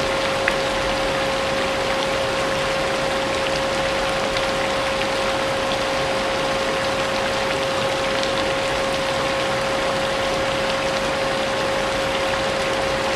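Vacuum cleaner running steadily with a constant hum, layered over the hiss of rain with faint scattered drop ticks.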